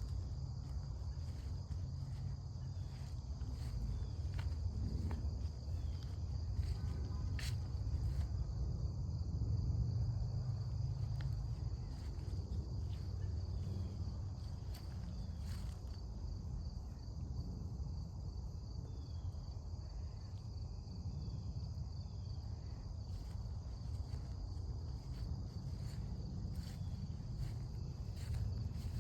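Crickets trilling steadily in a high, even chorus over a constant low rumble, with scattered soft clicks.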